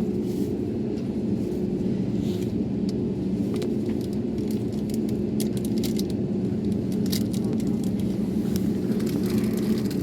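A steady, low engine drone with a constant hum that neither rises nor falls, and faint scattered clicks over it.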